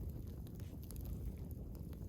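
Campfire of burning firewood logs crackling, with scattered small sharp pops over a steady low rumble.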